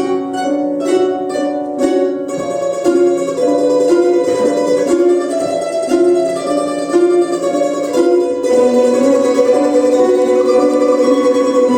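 Quartet of domras, the Russian round-bodied plucked lutes, playing a melody of short plucked notes that gives way about eight seconds in to longer held notes.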